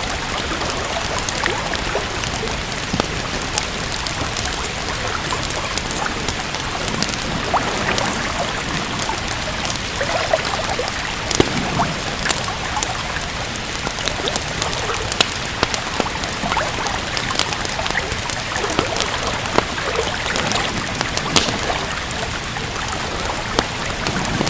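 Steady rain hiss mixed with a wood fire crackling, with irregular sharp pops from the burning logs.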